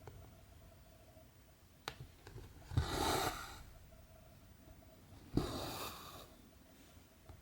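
Needle and cotton thread pulled through cross-stitch canvas: two rasping swishes, about three seconds in and again about five and a half seconds in, with a faint click just before the first.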